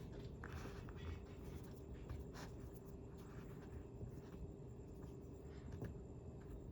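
Faint scratching and rustling with a few light taps, over a steady faint hum.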